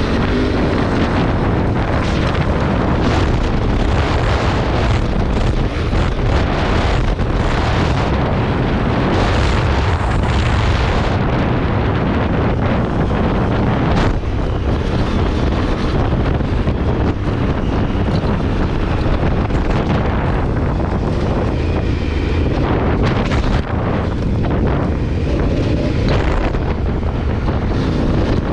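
Honda Africa Twin CRF1000L parallel-twin engine running as the motorcycle is ridden at speed, heavily mixed with wind rushing over the microphone.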